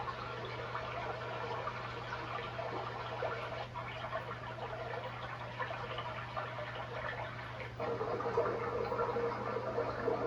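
iDealSleep white noise machine playing a water sound through its speaker, heard from about 12 feet away. The sound changes to a different track about 4 seconds in and again about 8 seconds in, the last one a little louder, over a steady low hum.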